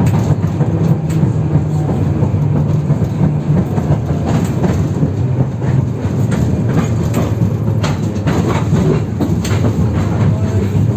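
Inside a moving 71-608KM tram: the steady low hum of the car running, with a run of sharp knocks and rattles from about four seconds in as the wheels clatter over worn track.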